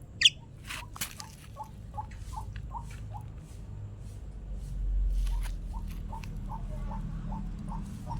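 Pet starling giving one sharp, sweeping whistled call near the start. Short low chirps repeat about two or three times a second, broken by scattered sharp taps and clicks.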